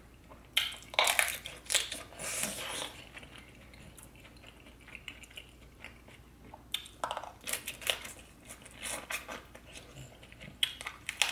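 A person chewing and biting a mouthful of seafood boil close to the microphone. There are three bouts of wet chewing bursts with short quiet pauses between them.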